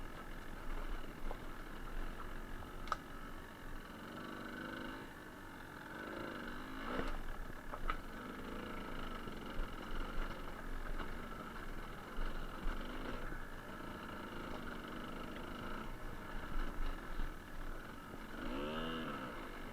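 Suzuki TS125R's two-stroke single-cylinder engine running as the bike is ridden, the revs rising and falling a few times, with a few sharp clicks along the way.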